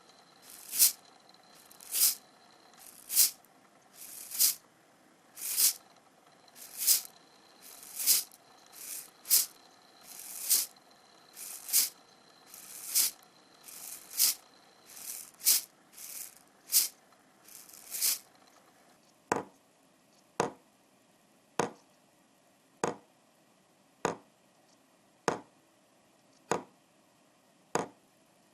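A hand rattle shaken in a steady beat, about one stroke a second. About two-thirds of the way through it gives way to sharp taps on the same beat.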